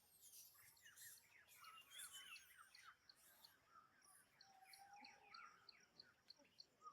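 Faint chorus of many birds chirping, with short quick calls throughout. About four seconds in, a high, regular ticking of roughly three a second joins in.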